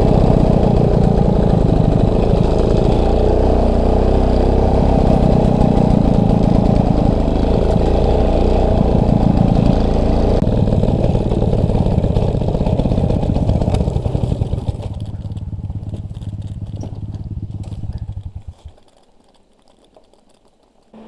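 Motorcycle engine running steadily, then dying away and cutting out about eighteen seconds in, leaving only quiet background.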